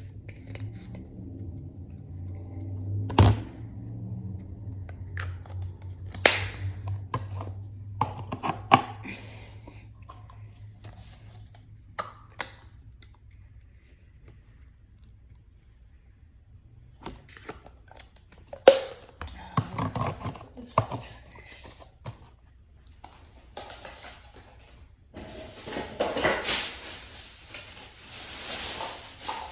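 Sauces being mixed by hand in a small container: scattered knocks, clicks and scrapes of a utensil and containers, with a few seconds of rustling hiss near the end.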